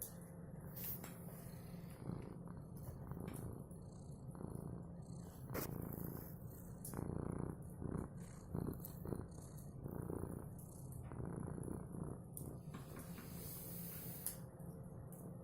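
Domestic cat purring steadily, with scattered sharp clicks over it.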